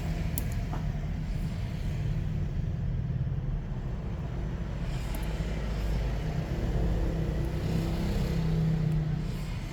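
Steady low background rumble, with a faint click or two near the start.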